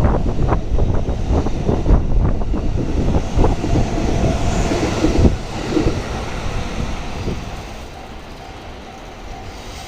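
Train passing close by on the JR Kyoto Line, its wheels clacking over the rail joints with a heavy rumble, then fading away after about five seconds as the last cars go by.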